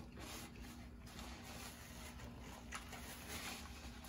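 Faint chewing: soft, wet mouth sounds of someone eating with a few small clicks of the lips and tongue.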